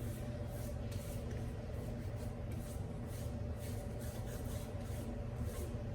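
Hands rubbing and patting aftershave splash onto the face and neck, soft strokes about two or three a second, over a steady low hum.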